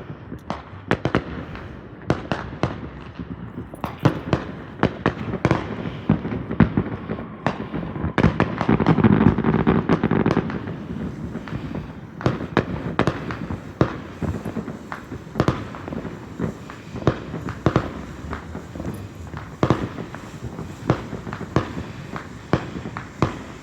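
Fireworks going off: a steady run of irregular sharp pops and cracks, several a second, thickening into a denser, louder stretch of crackling about nine seconds in.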